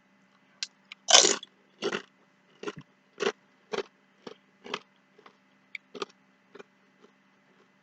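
A person chewing a mouthful of food close to the microphone, about two chews a second, the first the loudest and the rest growing fainter.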